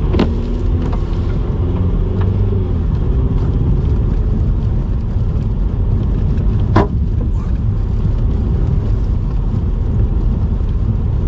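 Car driving, heard from inside the cabin: a steady low engine and road rumble. Two sharp knocks stand out, one at the very start and one about seven seconds in.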